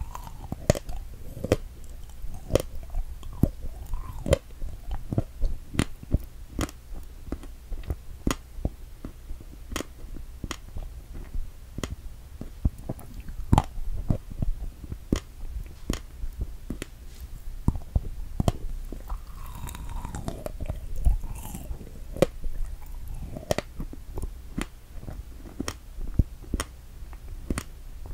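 Close-miked chewing of a strawberry Santa, a fresh strawberry with whipped cream: mouth sounds made of many small sharp clicks at an uneven pace.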